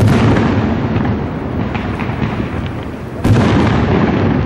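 Fireworks display: two loud aerial shell bursts, one right at the start and another about three seconds in, over a continuous rumble and crackle of smaller bursts.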